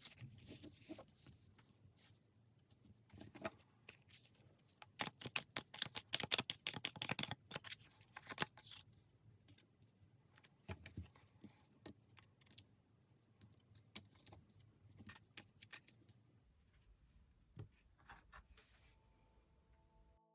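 Tarot cards being handled and shuffled: scattered card clicks and flicks, with a dense run of rapid card slaps in the middle.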